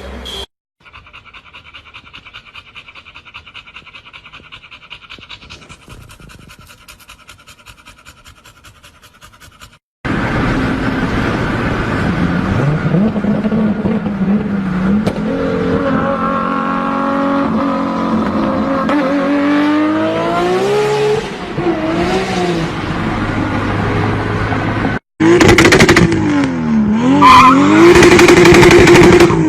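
Car engines and exhausts revving and accelerating in a run of short clips cut together: a quieter stretch with a fast even pulsing, then a loud engine whose pitch climbs as it revs, then a louder one blipping up and down near the end.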